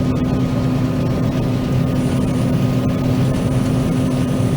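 John Deere 9500 combine running steadily while cutting soybeans: an even engine and machinery drone with a constant low hum.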